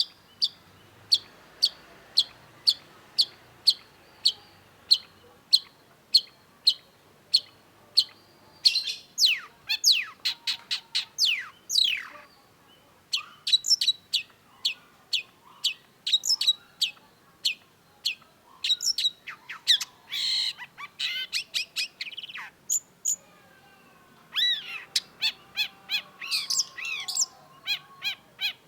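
Long-tailed shrike singing: a run of short, sharp repeated notes at about two a second, then a fast, varied song of down-slurred whistles, chattering phrases and a harsh buzzy note.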